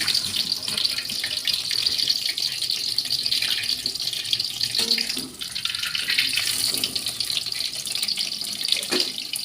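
Tap water running into a kitchen sink while a cloth rag is rinsed under it, with a steady hiss and irregular splashing.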